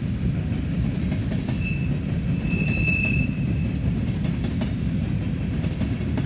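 Empty coal hopper cars of a freight train rolling past: a steady low rumble with irregular clicks of wheels over rail joints. A brief high squeal rises over it about two to three seconds in.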